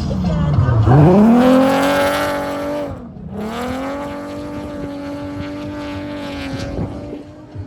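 Car engine revving hard and held at high revs, with a quick drop in revs about three seconds in before it climbs back and holds again.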